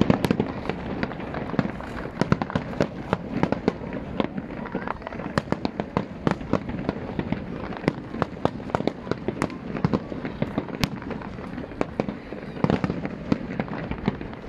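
Aerial fireworks display: shells bursting in quick, irregular succession, a dense run of sharp bangs and cracks over a continuous background din.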